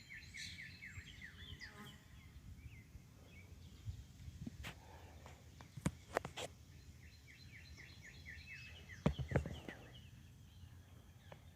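A songbird singing fast runs of short falling notes, in two bouts, over a low outdoor rumble. A few sharp knocks come around the middle, the loudest near the end.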